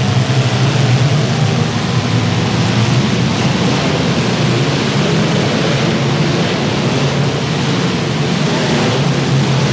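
Many compact demolition derby car engines running at once, making a loud, steady din.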